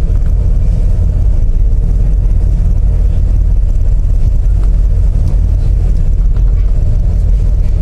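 Ship's engines running with a loud, steady low drone, heard aboard the vessel.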